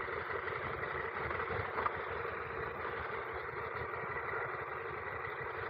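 Steady rush of wind and engine noise from an adventure motorcycle being ridden on a gravel road.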